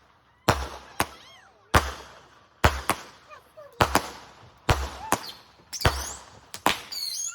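Consumer fireworks going off one after another, about a bang a second, eight or so sharp reports each fading quickly.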